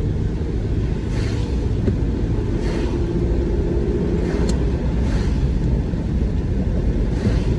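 A car driving, heard from inside the cabin: a steady low rumble of engine and tyres on the road, with a few faint hissing swells and a brief click about four and a half seconds in.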